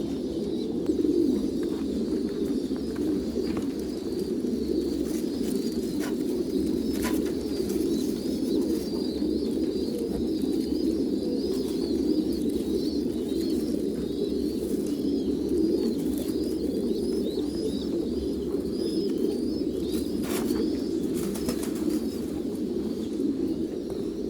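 A flock of pigeons cooing continuously, many voices overlapping into a steady low murmur, with rapid high chirping over it through the middle and a few sharp clicks.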